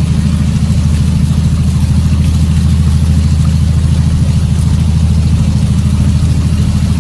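Vehicle engine heard from inside the cab, running steadily under load as it forces its way through flood water, with a steady rushing noise over it.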